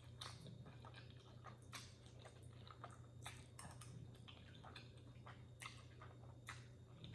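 Faint chewing close to the microphone: soft, irregular wet mouth clicks of someone eating noodles, over a low steady hum.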